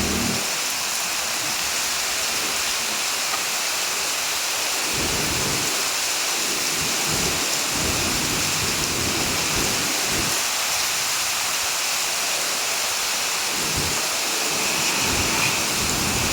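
Heavy rain falling steadily, a dense even hiss, with low rumbles swelling and fading at irregular intervals underneath.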